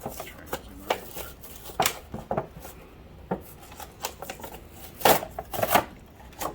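A doll's cardboard box and plastic packaging being handled and opened: irregular clicks, taps and rustling scrapes, loudest a little after five seconds in.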